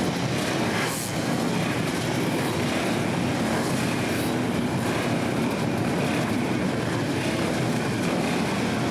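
Several flat-track racing motorcycle engines running together in a steady, mixed drone.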